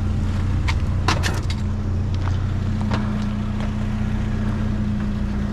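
A vehicle engine idling steadily, with scattered light knocks and clatters of scrap metal being handled.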